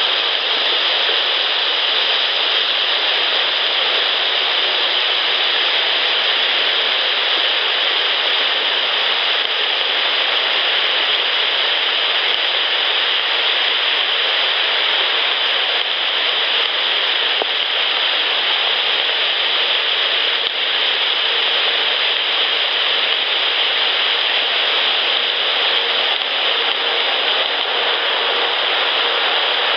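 Steady, even hiss with no distinct events, strongest in the upper register.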